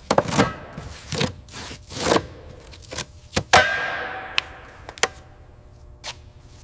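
Irregular knocks and clanks on metal, about ten in all; the loudest, about three and a half seconds in, rings on as it fades.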